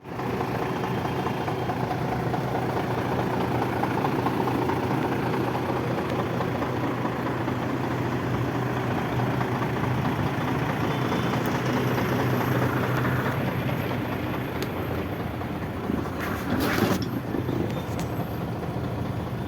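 Diesel engine of a 2007 Nissan CWB heavy truck idling steadily. About 17 seconds in there is a short burst of noise.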